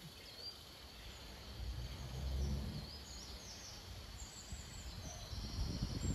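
Birds chirping and singing in short high calls over an uneven low rumble that swells about two seconds in and again near the end.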